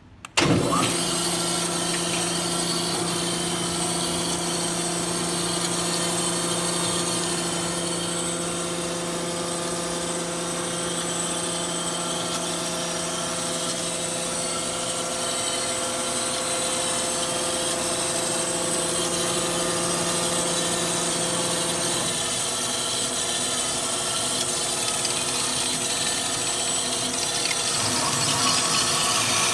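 Amada 250 metal-cutting band saw running: a steady machine hum with a low tone that drops out about 22 seconds in, and a higher whine that comes in near the end.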